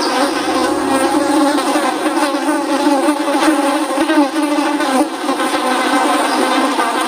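Flies buzzing: many wings humming together at slightly different, wavering pitches, steady and unbroken.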